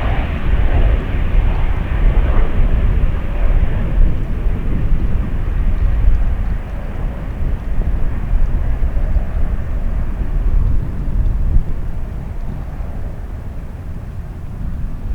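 Jet airliner climbing out at takeoff power: a loud, low rumble that slowly fades as it moves away, its higher part dying out first.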